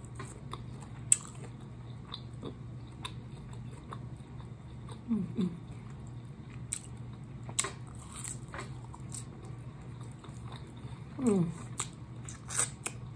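Close-up chewing and lip-smacking of a person eating chicken wings coated in hot sauce: many short wet smacks and clicks as she bites and chews the meat off the bone. Twice, about 5 s and 11 s in, a brief falling vocal sound cuts through the chewing.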